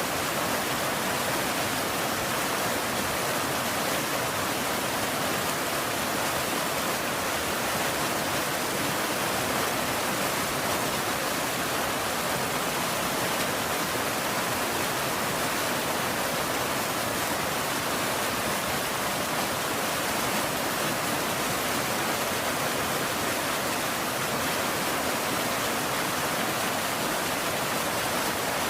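Steady rain, an even unbroken hiss with no thunder and no single drops standing out.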